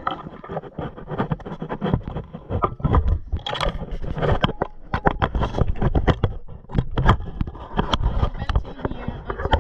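Kitchen clatter: a run of irregular knocks, clicks and scrapes as items are handled and set down on the counter.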